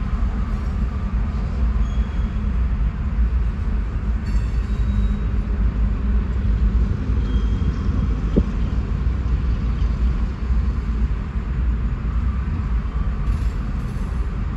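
Freight train cars (covered hoppers and a tank car) rolling steadily past, a continuous low rumble of wheels on rail, heard from inside a car.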